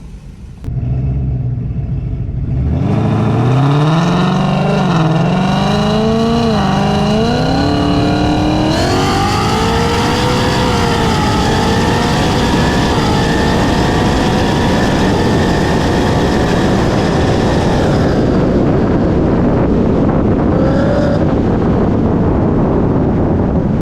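V8 car engine at full throttle in a drag race, its pitch climbing and dropping back at several quick upshifts, then holding high at speed under a loud rush of wind. The engine eases off about 18 seconds in.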